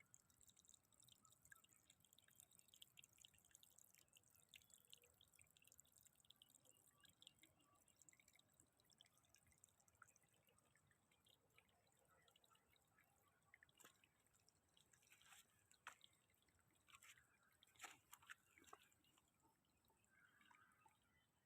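Faint dripping and trickling water from a small mountain waterfall: irregular drops, with a few louder ones in the second half, over a faint steady high hiss.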